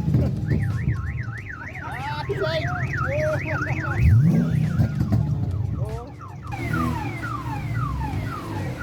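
Electronic car alarm siren cycling through its tones: a fast warbling wail, then a series of quick falling whoops. Underneath, a car engine runs and revs up briefly about four seconds in.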